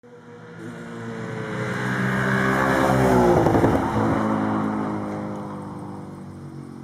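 Audi S5's 4.2-litre V8 FSI engine through an Akrapovič exhaust as the car drives past: the engine note swells as it approaches, drops in pitch as it goes by about three and a half seconds in, then fades away.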